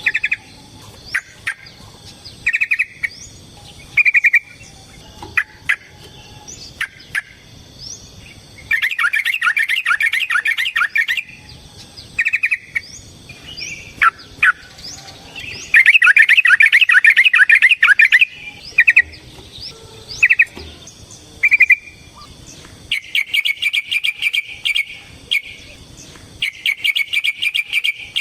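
Yellow-vented bulbul (trucukan) calling: short, bubbly single phrases between long, rapid rattling chatter runs of about two seconds each, the drawn-out 'ropel' song. Fainter, higher thin chirps of a bird sound behind it.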